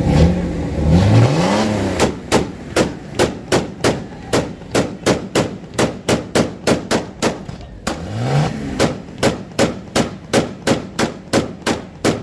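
Jeep's engine revved twice through its exhaust, then a long string of sharp cracks about three a second, with one more brief rev about eight seconds in.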